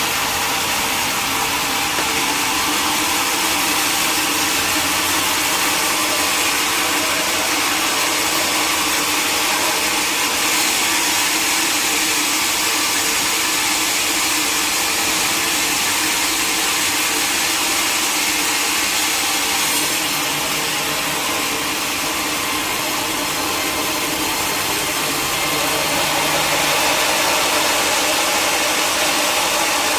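Sawmill machinery running steadily: a constant mechanical drone with a strong high hiss, unchanging throughout.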